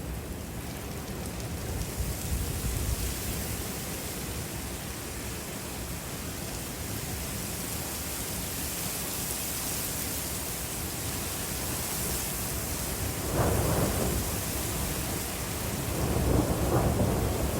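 Thunderstorm: steady rain and wind hiss under low rumbling thunder, with two louder surges near the end.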